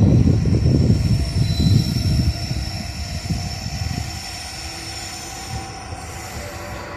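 Freight train running past on the rails, with an EF210 electric locomotive pushing: a loud low rumble that drops away about two seconds in, leaving a quieter steady running noise with faint high squealing tones.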